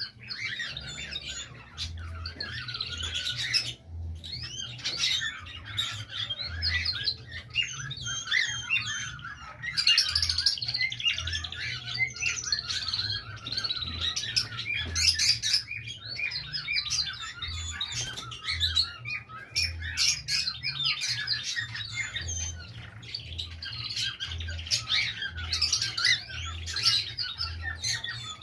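A flock of birds chattering and squawking, with many overlapping calls and no break.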